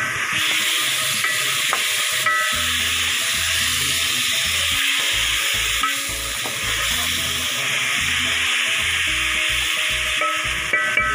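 Chicken pieces frying in oil in a metal pot: a steady sizzle, with a wooden spoon stirring them. Soft background music plays underneath.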